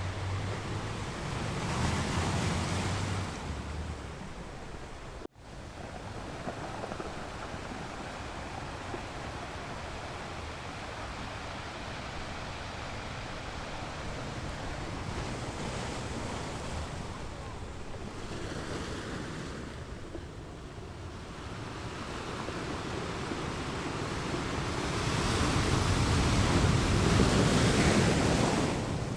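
Surf washing onto a beach, a steady rush of breaking waves that swells and falls back, loudest near the end. A very short drop to near silence comes about five seconds in.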